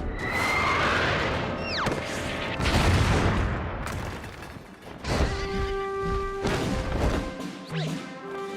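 Cartoon sound effects over background music: a rush of noise, a falling whistle and crashing booms in the first half, then held musical notes.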